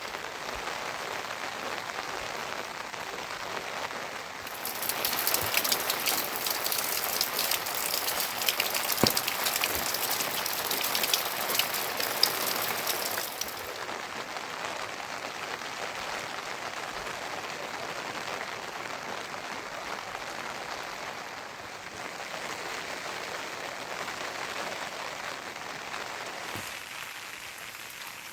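Rain falling steadily. Between about four and thirteen seconds in it is louder and crisper, with many individual drops pattering, then it settles back to a softer, even hiss.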